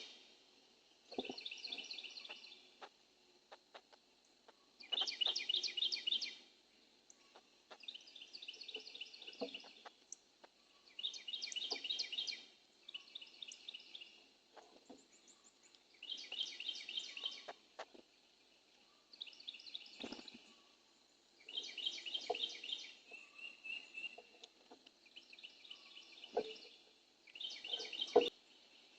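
A songbird singing the same short, fast run of repeated notes over and over, about a dozen songs with a pause of a second or two between each.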